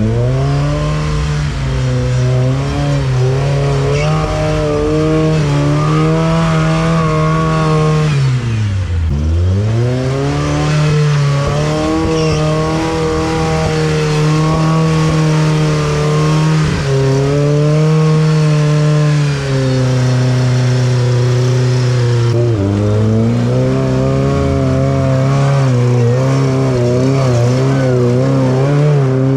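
Off-road rig's engine running under load, its revs changing as it works: held steady for long spells, dropping sharply about nine seconds in and climbing back, with smaller shifts later and an unsteady, wavering rev near the end.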